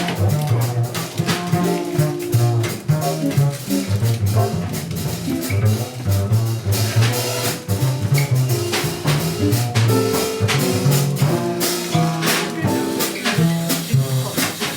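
Small jazz group playing live: a double bass walking a line of separate low notes, a drum kit keeping time on cymbals, and a horn.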